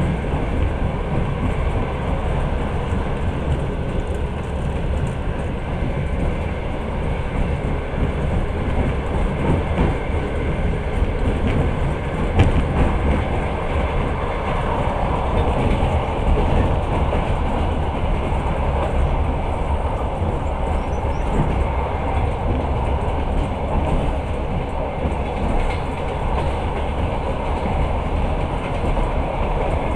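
Passenger train running at speed, its wheels on the rails making a steady, unbroken low rumble heard from the carriage.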